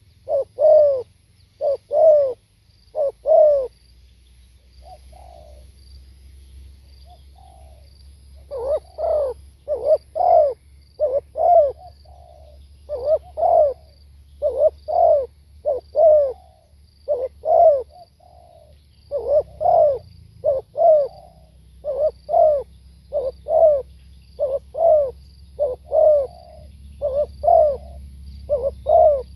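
Spotted dove cooing: a long run of short, low coos in quick groups, broken about four seconds in by a pause of several seconds with only a couple of faint notes. A faint low rumble underneath grows a little louder past the middle.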